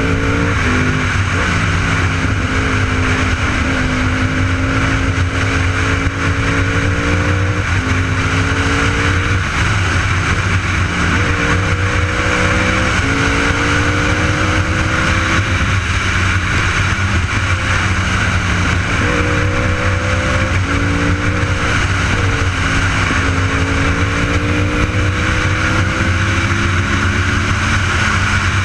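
Sport motorcycle engine under way, its note climbing and then dropping at each gear change, over heavy wind noise on the microphone.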